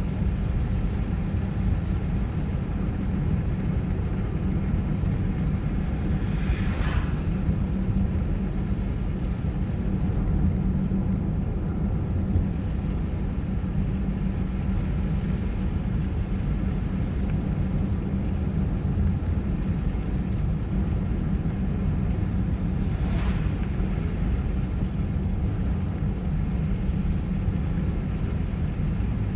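A car driving through a snowstorm: a steady low rumble of road and engine noise. A brief swish comes twice, about sixteen seconds apart.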